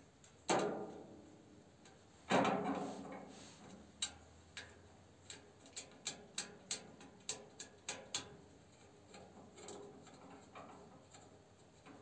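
Two ringing clanks about half a second and two seconds in, then a run of about a dozen quick light clicks. These are the metal retaining clips and glass panel being fitted to a cast-iron stove.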